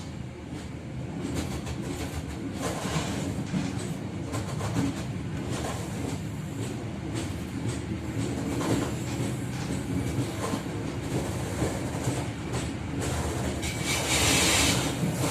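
Train running on the rails, a steady low rumble with wheels clacking irregularly over the track. A short burst of hiss comes near the end.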